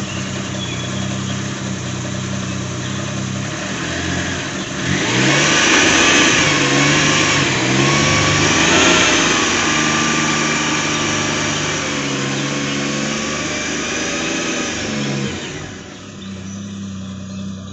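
A motor vehicle's engine running and revving as it pulls away. It gets louder with rising and falling pitch through the middle, then fades near the end as the vehicle drives off.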